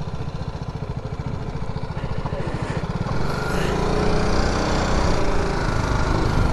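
Single-cylinder adventure motorcycle engine running with a fast, even low pulse, getting louder from about halfway through.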